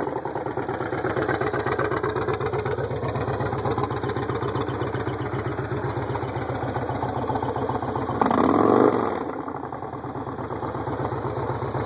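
Motorcycle engine idling with an even, pulsing exhaust beat, given one short throttle blip about eight seconds in, then settling back to idle.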